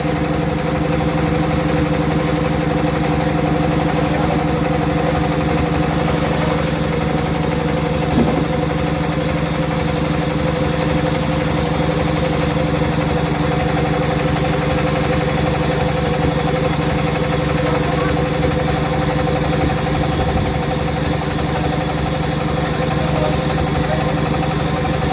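Sawmill saw machine's motor running at a steady pace, a constant droning hum with no change in pitch.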